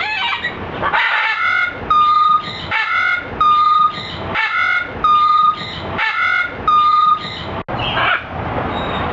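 A bird, of the kind kept at an exotic bird park, calling over and over in a regular two-part pattern: a harsh squawk followed by a flat whistled note, about six times. Near the end, after a brief break, there is a rougher, noisier squawk.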